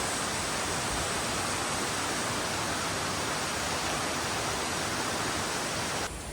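Valley stream rushing steadily, a dense hiss of flowing water that cuts off abruptly near the end to a quieter background.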